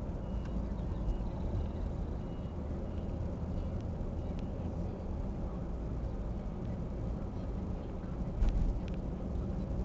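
A heavy engine running steadily with a low rumble, with a short knock about eight and a half seconds in.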